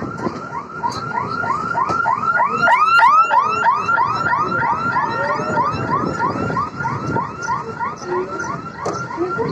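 Rapid, evenly repeating chirping, about four rise-and-fall chirps a second like an electronic alarm, loudest about three seconds in, over the low running noise of an electric local train.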